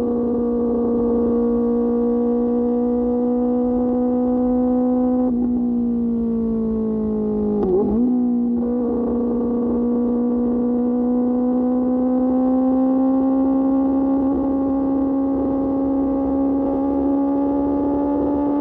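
QJ Motor SRK600's inline-four engine through an SC-Project exhaust, running at steady revs. About five seconds in the revs ease off for a couple of seconds, there is a short rev change near eight seconds, and then the revs climb slowly.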